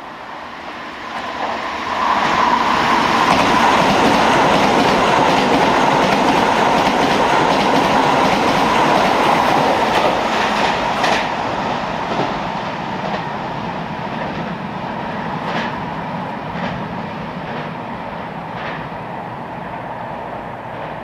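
Keisei 3000-series electric train running past, its wheels clacking over rail joints. The sound builds over the first two seconds, stays loud for several seconds, then slowly fades, with a faint steady whine in the middle and single clicks as it goes.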